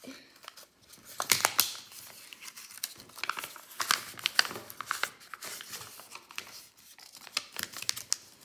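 A sheet of paper crinkling and rustling as it is folded and creased by hand into a paper airplane, in irregular handlings that are loudest about a second in and again around four seconds.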